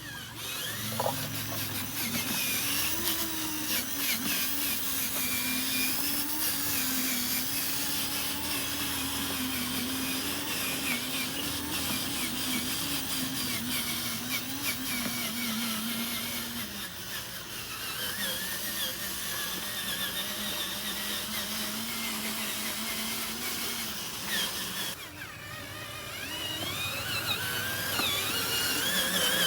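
Small electric motors of radio-controlled construction models whining as they work, with a wavering pitch. The pitch drops about halfway through, and near the end the whine grows louder and rises.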